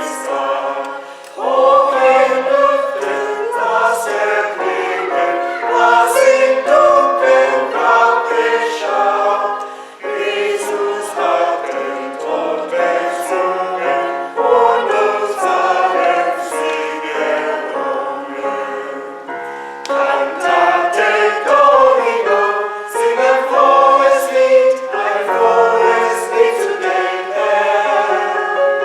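Church choir singing a piece in several voice parts, with brief pauses between phrases.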